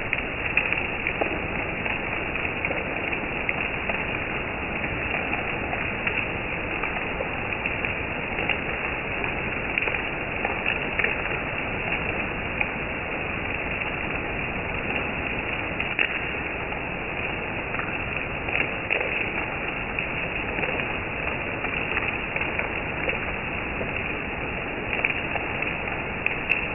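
Steady rain falling: an even hiss, dotted with scattered sharp ticks of nearby drops.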